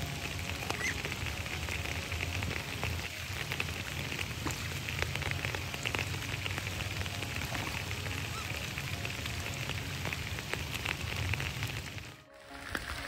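Steady rain falling on a lake's surface, a dense patter of small drops over a low rumble. The sound drops out briefly near the end.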